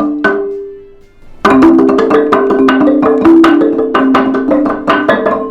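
Pitched notes struck with mallets, xylophone-like. A few ringing notes, a short pause about a second in, then a fast run of many notes.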